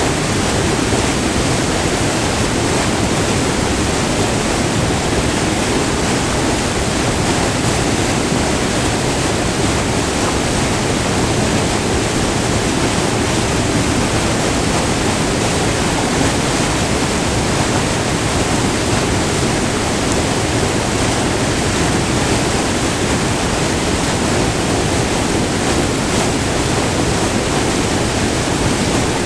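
Whitewater of a short multi-tiered river waterfall, rushing in a steady, loud roar heard up close.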